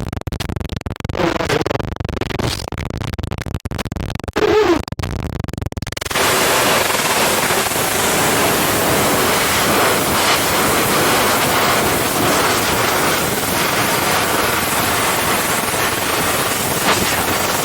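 Loud TV static: a steady, even hiss across all pitches that sets in about six seconds in. Before that, choppy crackling noise with two brief pitched snatches.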